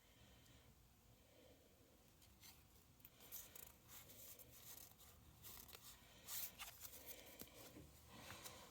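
Faint rustling and crinkling of a card blister pack and its cards being handled, with scattered soft clicks that get busier after about two seconds.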